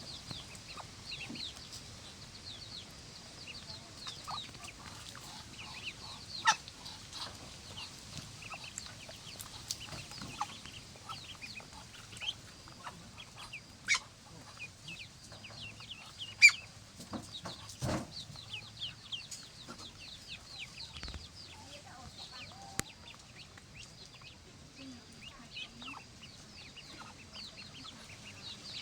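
Poultry peeping continuously: many short, high chirps that slide downward, with a few sharp knocks scattered through.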